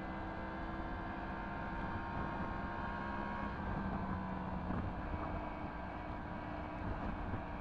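Yamaha MT-10 SP's crossplane inline-four running under way through an Akrapovic exhaust, holding a steady engine speed, with the note changing briefly about five seconds in. Some wind noise on the microphone.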